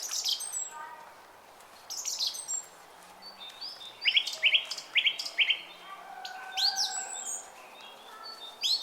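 Several songbirds chirping and singing, their calls overlapping: quick bright chirps, a run of four rapid falling notes in the middle, and a few rising sweeps near the end, over a faint steady hiss of running brook water.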